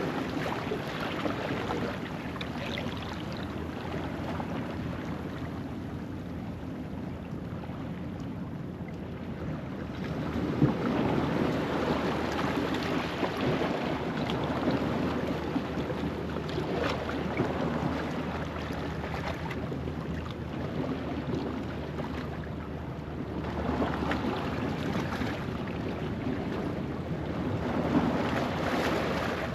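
Low-tide ocean waves washing over a rocky shoreline: a steady wash of surf that swells louder every several seconds as sets break on the rocks, with some wind on the microphone.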